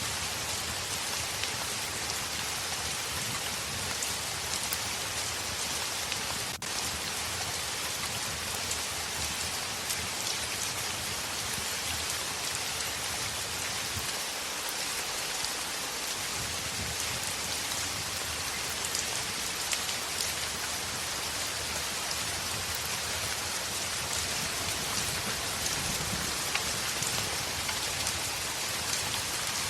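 Heavy rain falling on a window: a steady, even hiss of rain dotted with many small drop ticks.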